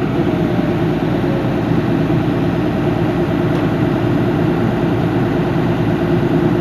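Cat 323D3 excavator running steadily, its engine and hydraulic pump giving the strange pump sound that persisted even after the pump was opened and repaired with no fault found. A faint whine falls slightly in pitch during the first second or so.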